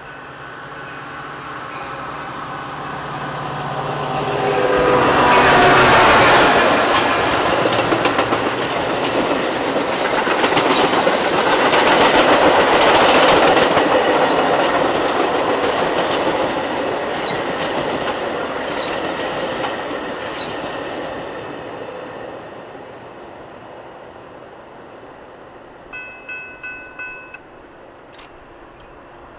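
A train passing on the tracks: its horn sounds as it approaches and drops in pitch as it goes by, then the wheels clatter loudly over the rails and fade away. Near the end come five quick ringing dings.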